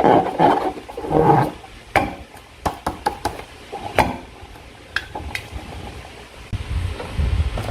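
Slime being squeezed and worked by hand with a balloon: wet squelching in two bursts early on, a string of sharp sticky clicks, and a low rumble near the end.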